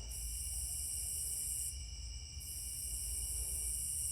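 Faint, steady high-pitched insect trilling that drops out briefly twice, over a low steady hum.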